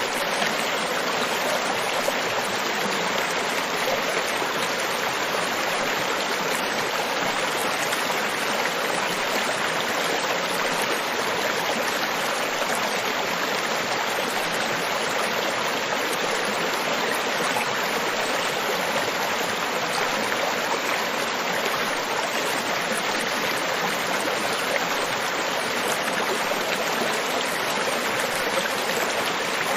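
Continuous rushing water, an even steady wash with no separate waves breaking or other events.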